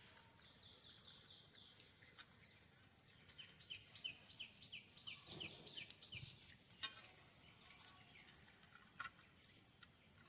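Faint bird chirping in runs of short repeated notes, about four a second, over a steady high thin whine, with a few soft clicks and rustles as a fish piece is wrapped in banana leaf.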